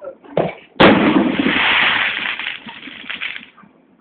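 A firework goes off with a sudden loud bang about a second in, followed by a long noisy rumble that fades over about three seconds.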